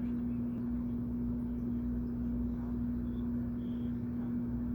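Steady low motor hum with one constant tone, unchanging throughout, with a few faint short high chirps about three seconds in.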